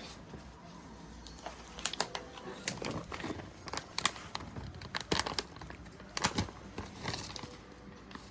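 Plastic wrapping crinkling and rustling in a run of short, irregular crackles and clicks that starts about a second and a half in.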